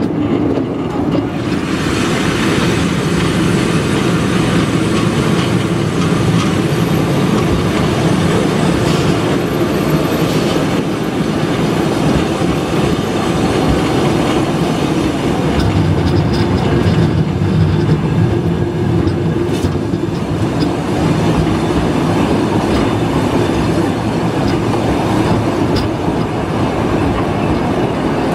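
Steam-hauled heritage train, locomotive No 34, running along the line, heard from on board: a steady rumble of wheels on the rails with running clatter over the track, unbroken throughout.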